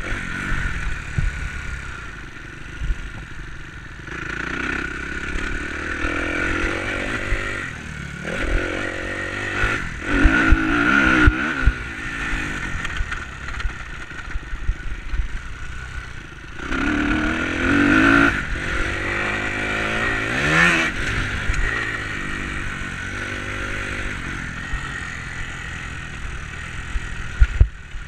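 Enduro dirt bike engine being ridden, its pitch rising and falling again and again as the throttle is worked, loudest in two stretches near the middle, with scattered knocks and clatter.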